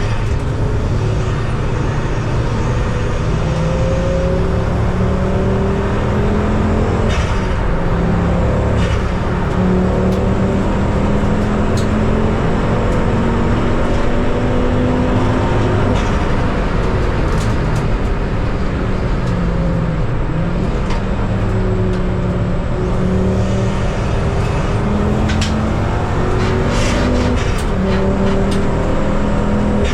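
Ford Focus ST race car's engine heard from on board, pulling steadily up through the revs and dropping back several times as it changes gear on a cautious lap.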